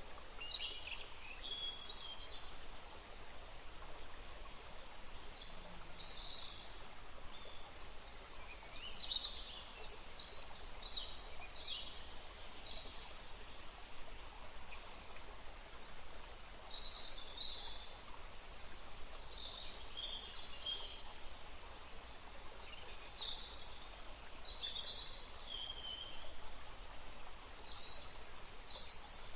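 Songbirds chirping and calling again and again in short high phrases over a steady rush of wind in trees and flowing water.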